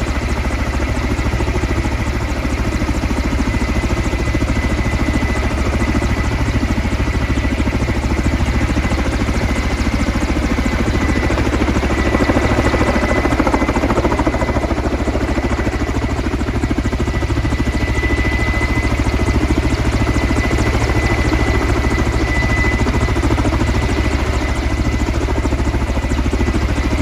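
Coaxial-rotor helicopter hovering low, its rotors beating steadily over a high steady turbine whine, as it dips its slung water bucket into the river to fill it. The sound swells slightly about halfway through.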